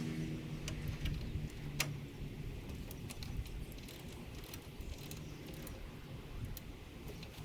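Light, irregular metallic clicks and clinks from hand-tool and hardware work on the horn mounting, over a low background rumble.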